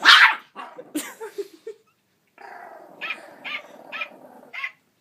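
Dog barking: one loud sharp bark at the start, a few smaller sounds, then after a short pause a run of evenly spaced barks, about two or three a second, over a steady hum.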